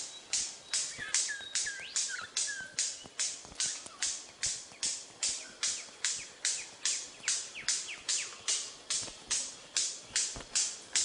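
A steady rhythmic hissing pulse, about two and a half beats a second, each beat starting sharply and fading quickly. A bird gives a few short whistled calls over it in the first three seconds.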